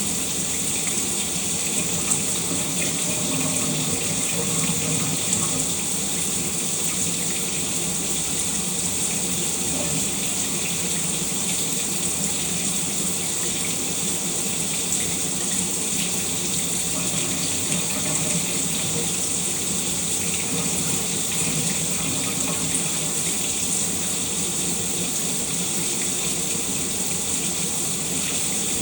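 Shower water running steadily, a constant hiss of spray splashing down.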